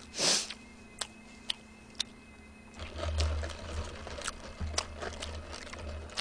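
Close-miked eating of a burger: a short hiss near the start and a few sharp wet clicks, then chewing with irregular low thumps and mouth clicks from about three seconds in.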